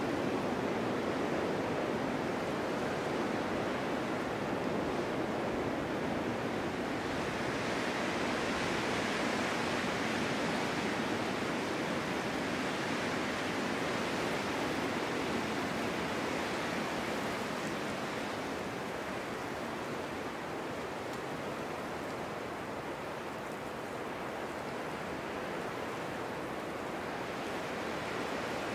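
Steady winter wind blowing. A gust swells about seven seconds in and eases off again over the next ten seconds or so.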